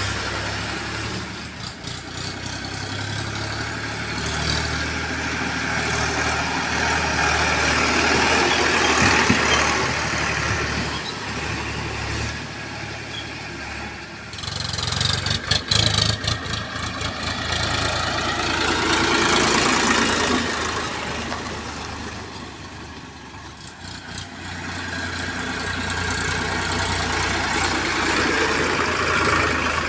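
Heavy diesel engine running with a steady low hum, swelling louder and fading back several times, with a burst of irregular clatter about halfway through.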